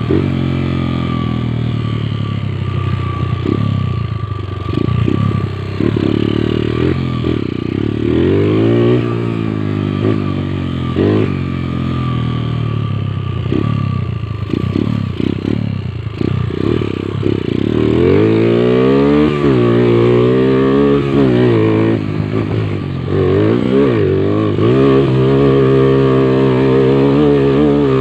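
Motorcycle engine revving under load while being ridden, its pitch rising and falling over and over with throttle and gear changes, held higher and harder near the end.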